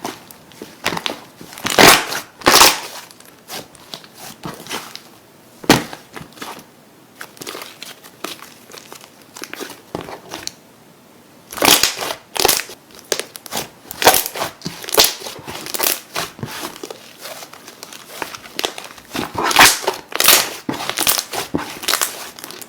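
Slime being squeezed and pressed by hand, giving irregular crackling, crunching pops. The pops come thickest in two runs, about halfway through and again near the end, with a sparser stretch before them.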